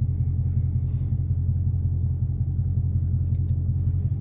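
Dodge Charger Daytona's 392 (6.4 L) HEMI V8 running steadily with a deep exhaust rumble. The exhaust is straight-piped except for the catalytic converters, with the mid mufflers and resonators deleted. Heard from inside the cabin.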